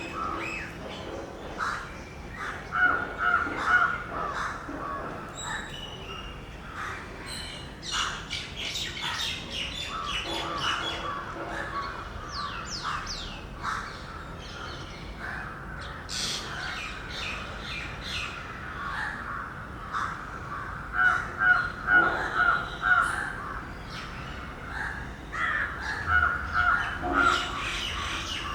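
Several birds calling, with louder bouts of rapid repeated calls a few seconds in, about two-thirds of the way through and near the end, and short high chirps in between.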